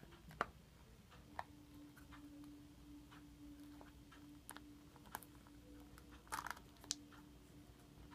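Faint, scattered clicks and taps of a plastic Shopkins blind basket being handled and pried at, with a small cluster of clicks about six and a half seconds in. Under it is a faint steady hum.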